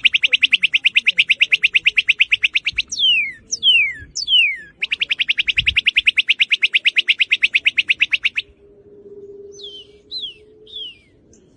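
Northern cardinal singing: clear down-slurred whistles alternate with two long, rapid trills of about eleven notes a second, and softer down-slurred notes follow near the end.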